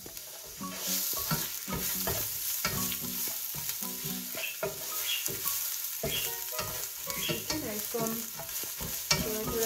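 Chopped garlic and ginger sizzling in hot oil with browned onions in a nonstick pan, a spatula stirring and scraping through it; the sizzle picks up about a second in.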